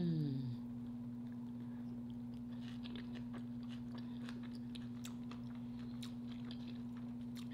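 Close-up chewing of a bite of chili cheese hot dog: soft wet mouth clicks and smacks that come thickest in the second half. It opens with a short falling "mm" from the eater, the loudest sound here.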